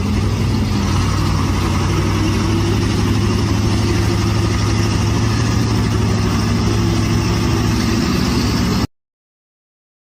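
A vehicle engine running at a steady pitch, cutting off abruptly near the end.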